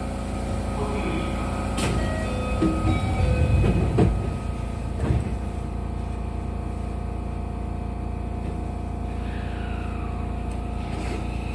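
Interior running sound of a JR West 207 series electric train: steady whining tones from the traction motor and inverter over low wheel-on-rail rumble. A few sharp knocks come in the first half, the loudest about four seconds in, and a tone slides in pitch near the end.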